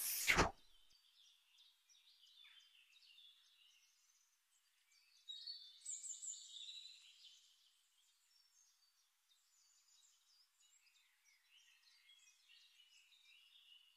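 Faint birds chirping: many short, high chirps and trills, loudest about five to seven seconds in. A brief sound right at the start comes from the tail of the subscribe animation's sound effect.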